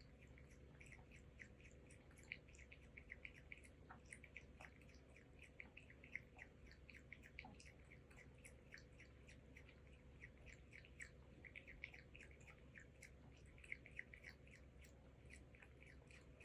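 A cat lapping milk: a long run of quick, faint wet clicks, several a second, with small irregular pauses.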